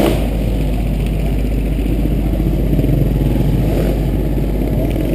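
Motocross motorcycle engine running steadily, loud and close.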